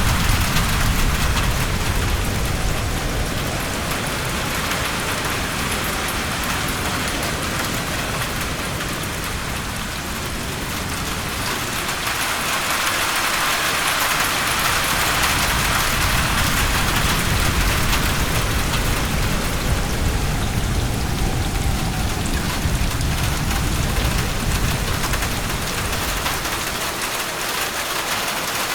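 Heavy rain falling steadily as a continuous hiss, growing louder about halfway through. A low rumble runs under it near the start and again later on.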